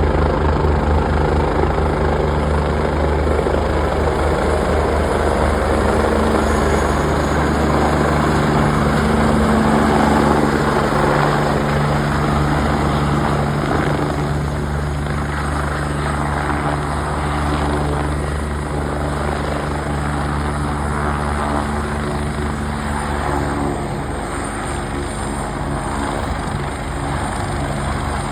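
Airbus EC145 twin-engine helicopter running with its rotor beating steadily, the sound easing slightly over the second half. A faint high turbine whine rises a little from about halfway through.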